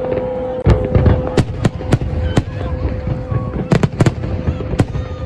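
New Year's Eve fireworks going off: about a dozen sharp bangs at irregular intervals, some in quick pairs, over a constant low rumble of more distant fireworks. A steady tone runs underneath.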